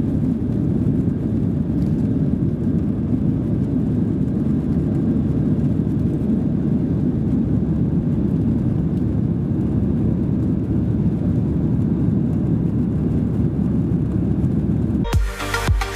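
Steady low rumble of a Boeing 737-700's CFM56-7B jet engines and airflow heard from inside the cabin as the airliner climbs after takeoff. Music cuts in suddenly about a second before the end.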